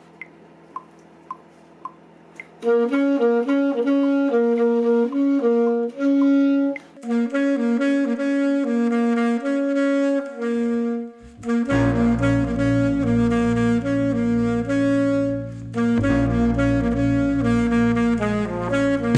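Metronome clicking about twice a second as a count-in, then a rock band's instrumental intro starts with a sustained lead melody; a heavy low bass part joins about halfway through.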